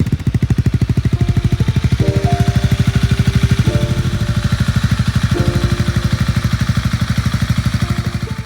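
Honda Rebel 250's single-cylinder engine idling through a Moriwaki aftermarket exhaust, a steady, even beat of about ten pulses a second.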